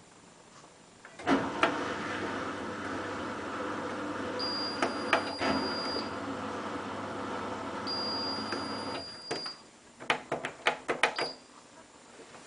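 Hotpoint WT960 washing machine's motor turning the drum: a steady hum with a faint high whine starts about a second in, runs for about eight seconds and stops, followed by a quick run of clicks.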